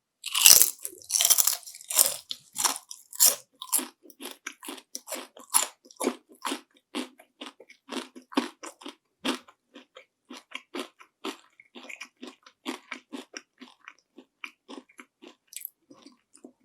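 A close-miked bite into crispy panko-fried shrimp, loud and crackly, then steady crunchy chewing at about three chews a second. The chewing grows softer toward the end as the breading breaks down.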